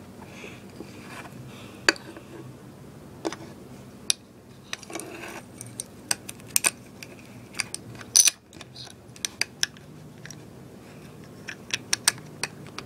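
Small plastic toy figures and their packaging being handled, giving scattered light clicks and taps. The loudest clack comes about eight seconds in.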